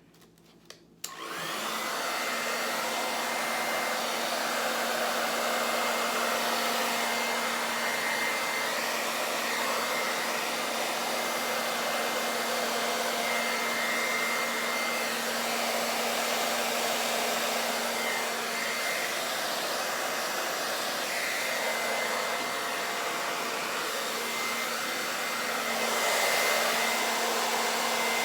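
A hair dryer switches on about a second in and runs steadily, with a steady motor whine, as its air blows wet acrylic paint out across the canvas in a Dutch pour. It gets a little louder near the end.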